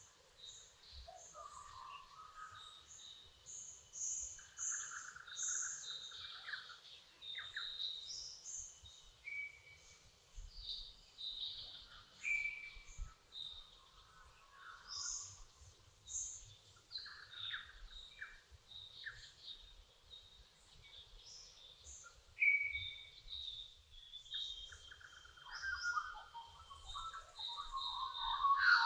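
Dawn chorus of several birds singing and chirping at once: many short, overlapping whistles, trills and chips at different pitches.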